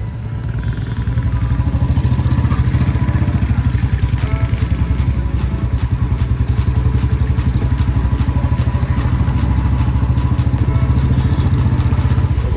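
Royal Enfield Bullet's single-cylinder engine running through a replacement silencer: a loud, steady exhaust note with a fast, even pulse, which grows louder about a second in.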